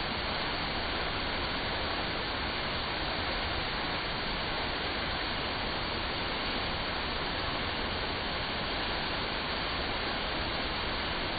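Steady splashing of water pouring down an artificial waterfall.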